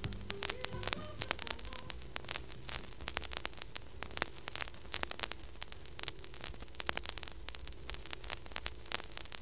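Crackling surface noise with many irregular clicks and pops over a steady faint hiss and low hum, as from a vinyl record playing the silent groove between two tracks; the last notes of the previous piece die away in the first second.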